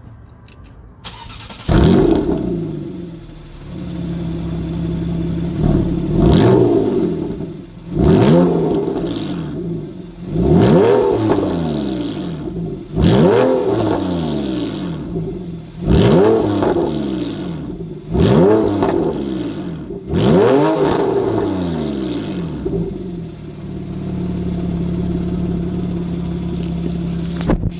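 A 2014 Porsche 911's flat-six starting with a flare of revs, then blipped seven times in quick rising-and-falling revs about every two and a half seconds before settling to a steady idle. The exhaust is a little bit meaner than the norm.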